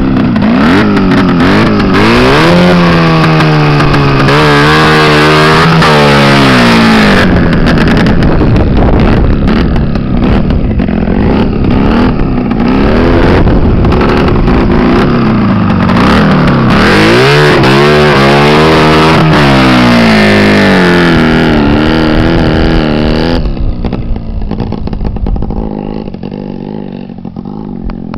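ČZ 350 two-stroke motorcycle engine in a dirt bike, revved hard again and again, its pitch climbing and dropping with each throttle opening and gear change. About 23 seconds in it suddenly drops to a much quieter, lower running.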